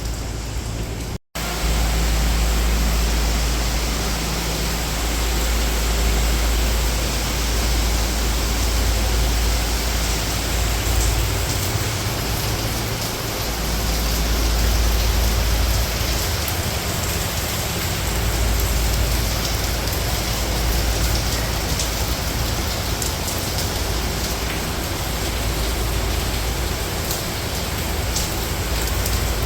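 Steady rain, a dense even hiss, with a low rumble underneath. The sound cuts out for an instant about a second in.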